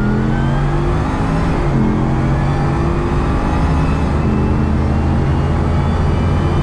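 Bugatti Veyron's quad-turbo W16 engine running as the car is driven, its note climbing slowly and shifting in pitch twice.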